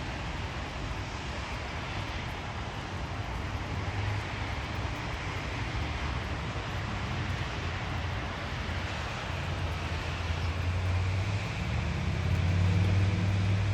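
Steady hiss of rain with distant traffic rumble; a motor vehicle's engine grows louder in the last few seconds as it passes close by.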